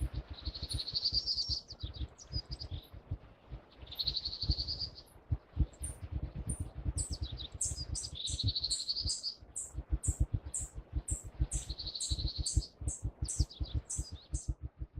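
Wild birds singing: one repeats a short warbled phrase about every three to four seconds, while another gives quick high chirps through the second half, over a low irregular rumble.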